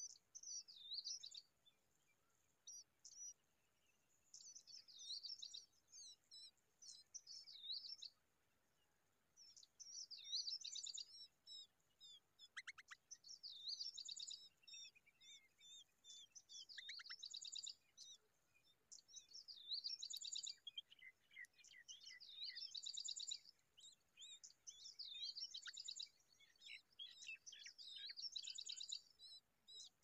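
Common babblers chirping at the nest: bouts of rapid, high-pitched chirps and trills with short pauses between them, with the nestling gaping as if begging.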